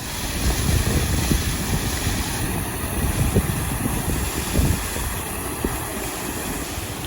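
A waterfall's steady rushing water, with wind buffeting the microphone in low gusts.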